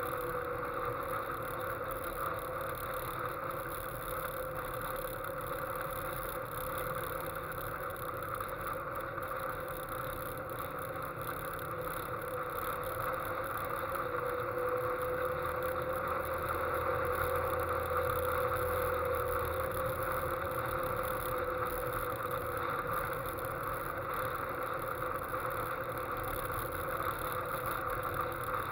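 Westfield sports car cruising on the road: its engine runs at a steady pace, with the note rising a little about halfway through and settling again, over a steady rush of wind and road noise.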